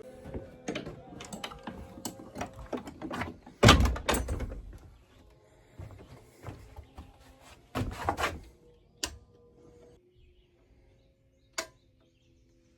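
A run of knocks and clatters, with a heavy thump about four seconds in and another near eight seconds, then faint steady tones near the end.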